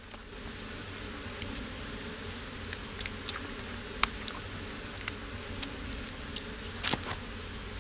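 Stingless bees buzzing steadily around their nest, with a few short clicks scattered through.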